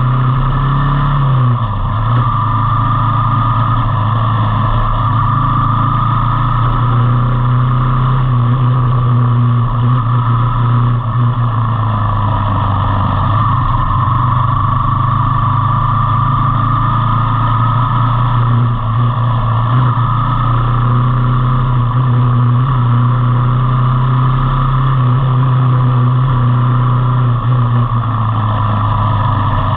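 Motorcycle engine running steadily while riding, with a faint whine that slowly rises and falls in pitch.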